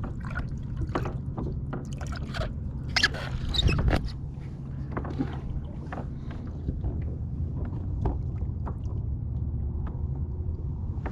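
Steady wind-and-water rumble around a small fishing boat, with irregular clicks, knocks and splashy scrapes, busiest about three to four seconds in.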